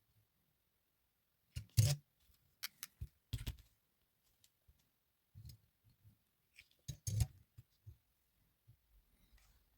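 A few scattered light clicks and knocks, loudest about two seconds in and again about seven seconds in.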